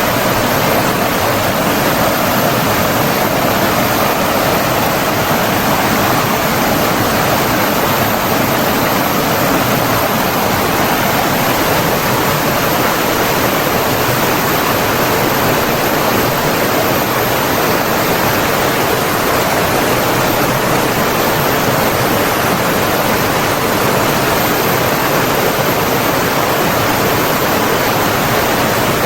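Steady rushing of flowing water from a stream or waterfall, an even loud hiss with no breaks.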